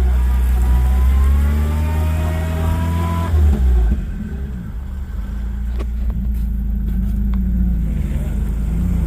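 4x4 truck engine revving under load with a slowly rising whine as the stuck vehicle tries to drive forward, then easing off about three and a half seconds in to a lower steady run, with a few sharp knocks.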